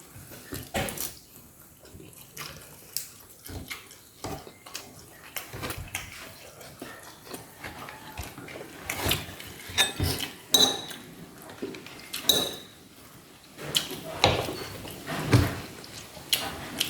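Dishes and cutlery clinking and knocking irregularly during a meal. A few strokes ring briefly, and the knocks come thicker and louder in the second half.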